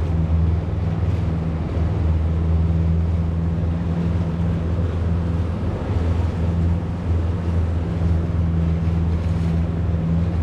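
Boat motor running at a steady speed, a constant low hum, with water and wind noise over it.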